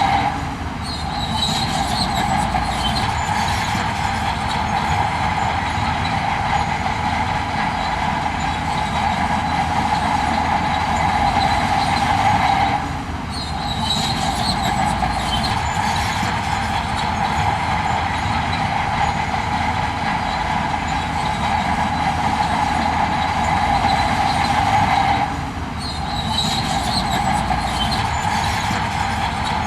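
Heavy earthmoving machinery running steadily under load, a constant mechanical din with metallic clatter. The level drops briefly near the start, about 13 seconds in and about 25 seconds in.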